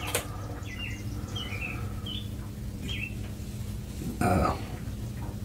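Small birds chirping faintly in the background: a few short, high chirps scattered over the first three seconds, over a steady low hum. About four seconds in there is a brief, louder sound.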